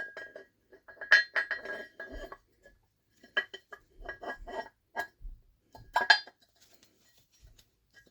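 Supercharger rotor lobes being test-fitted into the casing against the newly recessed bearing: a series of metallic clinks, several carrying a short ringing tone, in clusters about a second apart.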